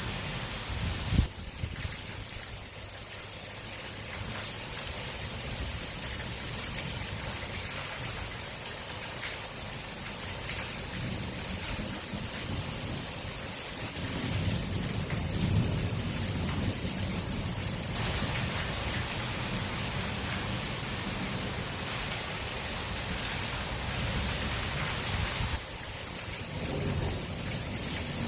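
Heavy rain falling in a steady hiss during a thunderstorm, with a low rumble of thunder swelling about halfway through.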